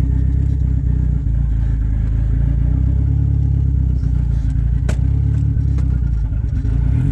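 Engine of a Mitsubishi Mirage with an Evo 3 conversion running steadily at low revs as the car creeps forward in gear, loud enough to drown out speech. A single sharp click sounds about five seconds in.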